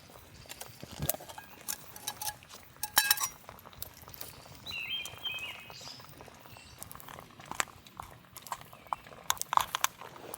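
A series of light clicks, clinks and knocks, as of camp gear or cookware being handled, with a brief chirp-like tone about five seconds in.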